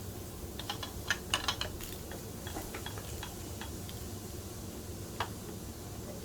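Light clicks and taps of hard plastic toy parts on a baby's jumper activity toy: a quick cluster of clicks about a second in, then a few scattered single clicks.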